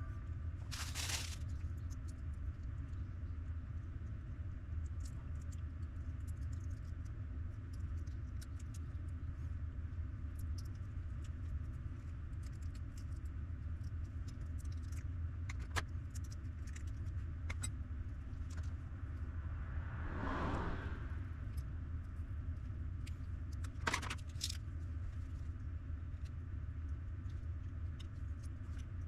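Scattered small clicks and brief rustling knocks of small parts and tools being handled, over a steady low hum. Louder handling noises come about a second in, around twenty seconds in, and once more a few seconds later.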